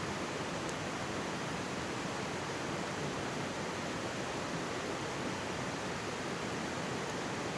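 Mountain stream babbling and rushing in a steady, even wash of water noise, with two faint crackles from a wood campfire, one about a second in and one near the end.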